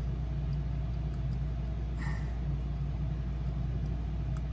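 Steady low background hum, with a faint short scrape about two seconds in.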